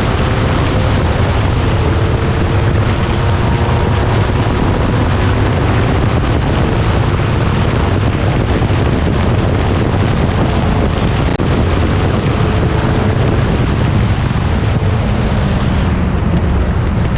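Racing car engine running hard at speed, buried under heavy wind buffeting on the microphone that makes a loud, steady rumbling roar with only faint engine tones showing through.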